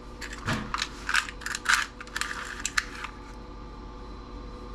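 Small metal parts (screws, nuts and other steel and brass pieces from a TV) clinking against each other as they are handled and tossed onto a pile. A quick run of sharp clinks stops about three seconds in, leaving a faint steady hum.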